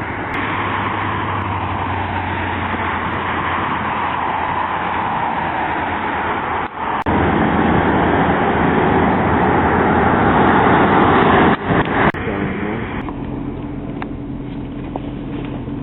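Car engine and road noise from a moving vehicle. The sound breaks off abruptly about seven seconds in and again near twelve seconds. After about thirteen seconds a quieter, steady engine hum is left.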